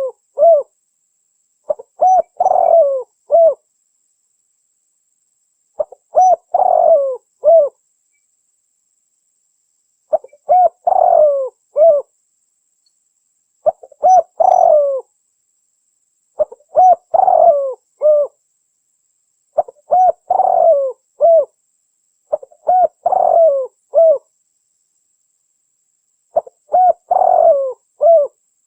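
Spotted dove (tekukur) cooing, about eight phrases of three or four low coos each, every three to four seconds with silence between them. This is the call used to lure tekukur.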